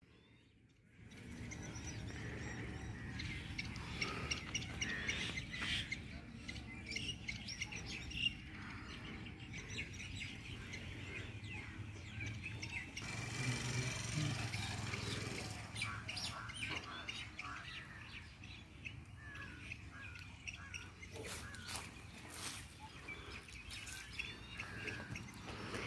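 Small birds chirping and calling on and off, over a low steady background rumble that begins about a second in.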